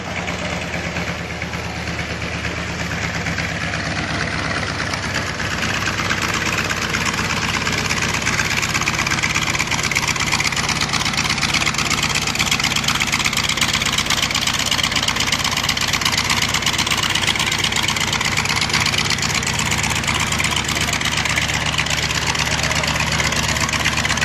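T-28B Trojan's Wright R-1820 nine-cylinder radial engine and propeller running on the ground, growing louder over the first several seconds and then holding steady.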